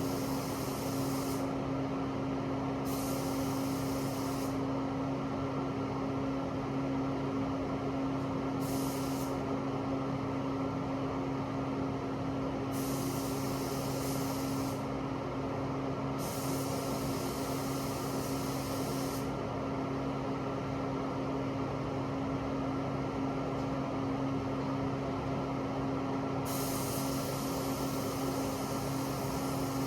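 Paint booth fan running with a steady hum, while a paint spray gun hisses in repeated bursts of one to three seconds as the trigger is pulled and released.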